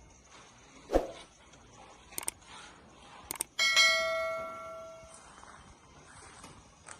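A metal object struck once about halfway through, ringing like a bell with several tones that fade over a second or so, after a few sharp knocks.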